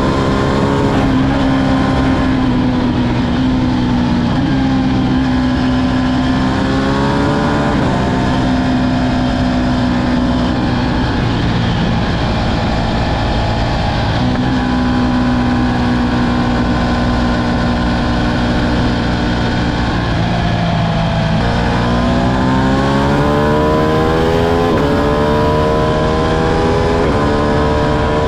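Ducati Streetfighter V2's 955 cc Superquadro V-twin running under way, its note holding steady, rising around the seven-second mark, dropping back about twenty seconds in, then climbing through the last several seconds as the bike accelerates.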